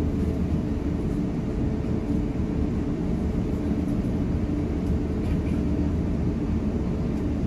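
Steady rumble of an Airbus A350-900 airliner heard from inside the passenger cabin: engine and airflow noise, deep and even, with no change in pitch or level.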